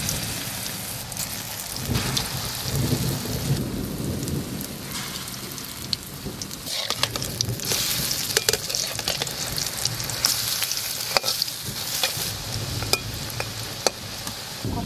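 Spice-paste-coated eggs sizzling as they fry in hot oil in a metal kadai, with a steady hiss and scattered sharp clicks as a metal spatula scrapes and taps the pan turning them.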